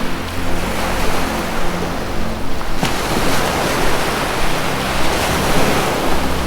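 Ocean surf washing in a steady, gently swelling rush. Low sustained music tones play underneath and change pitch about two-thirds of the way through.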